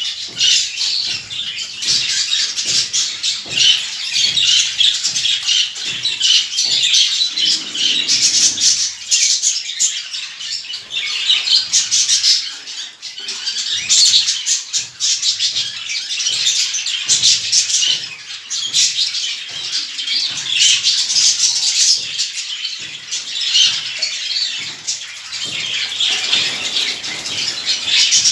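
A flock of small cage birds chirping and squawking together without pause, dense high-pitched calls overlapping, with many short clicks and flutters among them.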